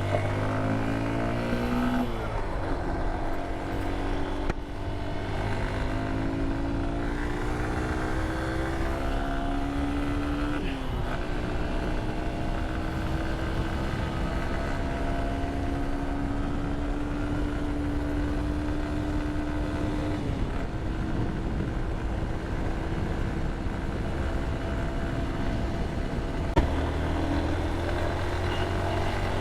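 Motorcycle engine pulling away and running up through the gears: its note climbs and drops back at each gear change, three times in roughly the first ten seconds, then holds a steady cruising note with one more drop about twenty seconds in. A steady rush of road and wind noise runs underneath, and a short knock comes near the end.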